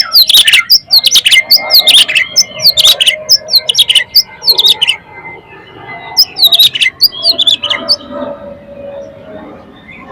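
Oriental magpie-robin (kacer) singing loudly in full, open song: rapid sharp whistles and harsh notes. It sings in two bursts, the first lasting about five seconds and a shorter one about six seconds in, then softer twittering.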